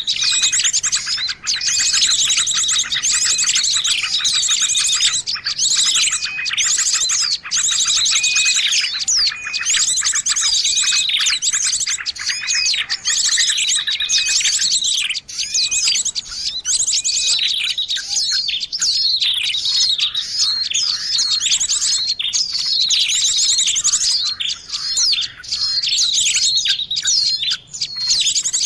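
Dense, continuous chorus of many small songbirds chirping and trilling at once, with rapid repeated notes overlapping, as in a bird-lure (pikat) recording meant to draw in small birds.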